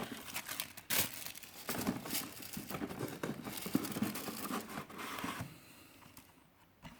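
Crinkling and rustling of diecast-car packaging, card and plastic blister, being handled and pulled from a cardboard case. It goes on busily for about five seconds, then dies away, with one small click near the end.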